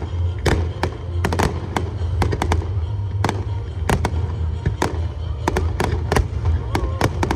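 Aerial fireworks bursting: a rapid, irregular run of sharp bangs and pops, several a second at times, over a steady low rumble.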